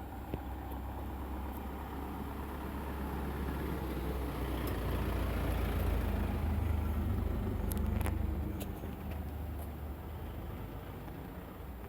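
A motor vehicle passing along the road: engine and tyre noise grows louder to a peak about two-thirds of the way through, then fades away.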